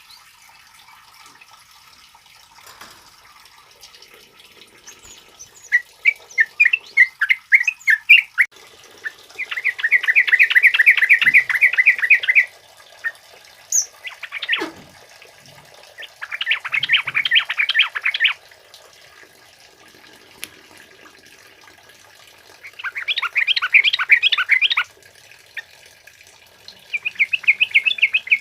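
Trucukan (yellow-vented bulbul) singing five bursts of rapid, bubbly chattering phrases, each two to three seconds long with short pauses between, beginning about six seconds in.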